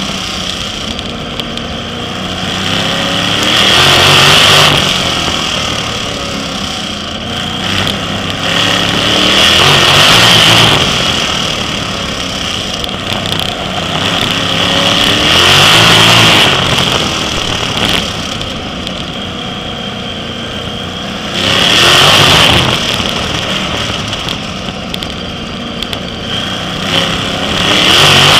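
Sprint car engines racing on a short oval. The engine sound swells loud and falls back about every six seconds.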